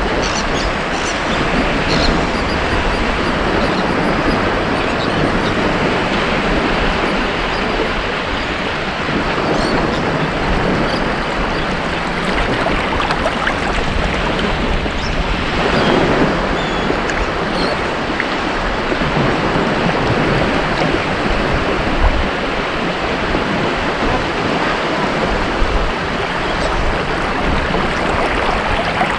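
Ocean waves breaking and washing on a beach in a steady wash of surf, with one wave swelling louder about halfway through.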